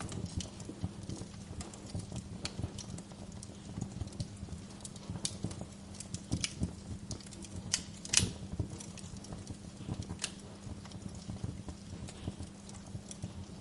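Wood fire crackling in a fireplace: a steady run of small irregular snaps and pops, with one louder sharp pop about eight seconds in, over a steady low hum.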